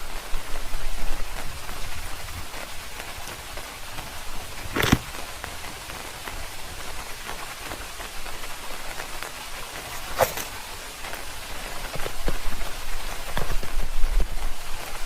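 Rain falling steadily, a continuous patter with a few louder single drops and a low rumble swelling near the end.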